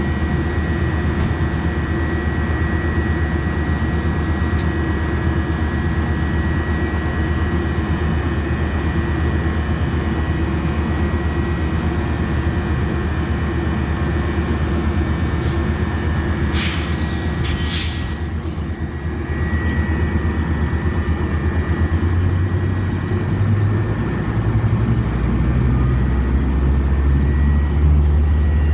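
Metrolink commuter train running: a steady low rumble with a faint held whine, two short bursts of hissing air about two-thirds of the way through, and a low diesel tone that steps up in pitch and grows louder near the end.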